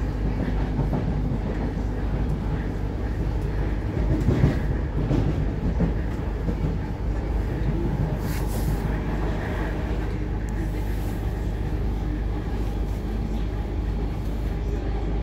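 Running noise inside a moving passenger train carriage: a steady low rumble of wheels on track. It gets louder for a moment about four seconds in, and a brief high hiss comes about eight seconds in.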